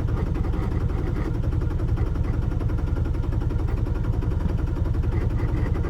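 Small sailboat's inboard engine running steadily, a low, evenly pulsing drone.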